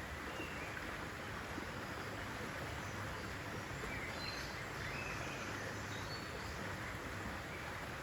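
Steady rushing outdoor nature ambience, with a few faint bird chirps through the middle.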